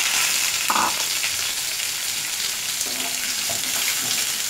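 Raw green mango slices sizzling in hot mustard oil with mustard seeds and dried chillies in a frying pan, just added, as a wooden spatula stirs them. A brief knock comes a little under a second in.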